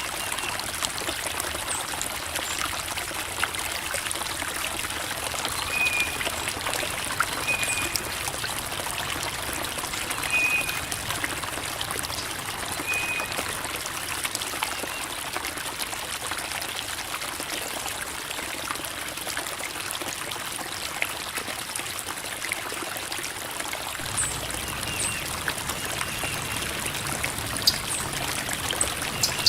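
Creek water trickling and babbling over rocks: a steady, hissy rush of flowing water with small splashes and drips. A little more low rushing comes in near the end.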